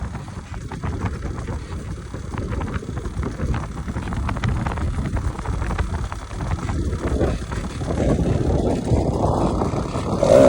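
Yamaha DTR 125 single-cylinder two-stroke engine running: a low rumble at first, growing louder with a clearer engine note over the last few seconds.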